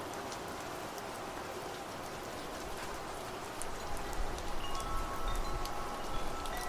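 Steady rain with scattered drops ticking. About halfway through, wind chimes start ringing, several tones sounding together. A low gusting rumble swells underneath them.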